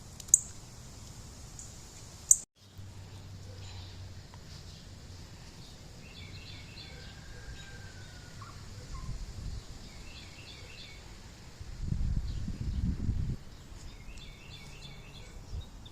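Small birds chirping outdoors in short repeated bursts, three times across the stretch, with one brief whistled glide. Two sharp clicks sound in the first few seconds, and a low rumble of wind on the microphone comes in around twelve seconds.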